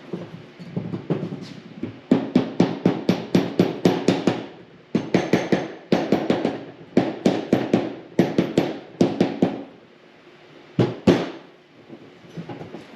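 Runs of quick hammer taps on the snowmobile engine's crankcase, about four a second with short pauses between runs, then two heavier blows near the end.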